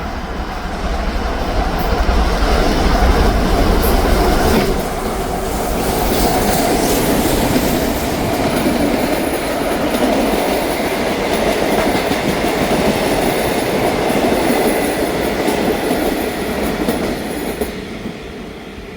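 Steam locomotive R711 and its passenger train passing close by. A heavy low rumble comes in the first few seconds as the engine goes past, then the carriages roll by with clickety-clack over the rail joints and a faint high wheel squeal, fading near the end.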